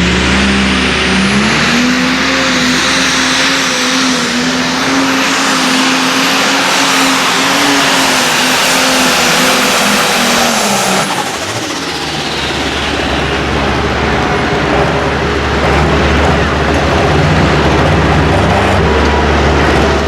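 Light pro stock pulling tractor's turbocharged diesel engine running hard at high revs with a high whistle above it. About eleven seconds in it backs off and drops to a lower running note, then builds again near the end.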